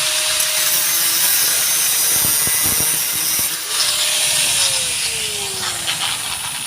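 Power tool cutting metal during a muffler replacement, a loud high hiss throughout. About four and a half seconds in, the motor's tone slides steadily down as the tool winds down.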